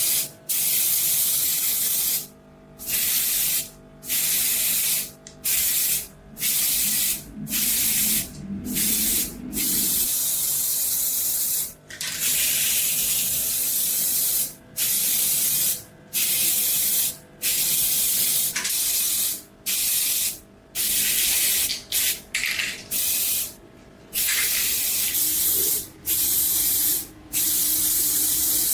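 Abrasive strokes on the steel of a knife blade, rubbed back and forth by hand: a run of loud, hissing strokes about a second long each, with a short break between them, over and over.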